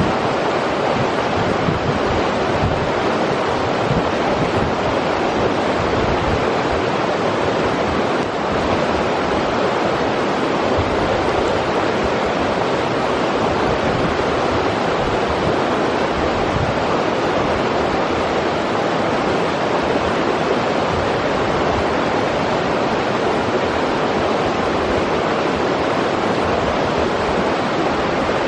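River water rushing and splashing over rocks in a steady, even roar of white noise, with occasional low rumbles of wind on the microphone.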